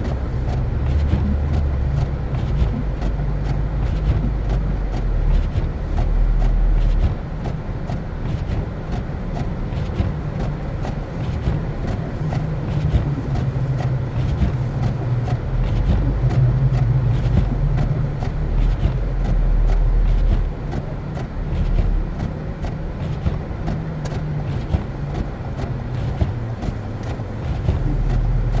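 A car driving on a snow-covered road: a steady low rumble of engine and tyre noise. It eases off a little about seven seconds in and again near twenty seconds.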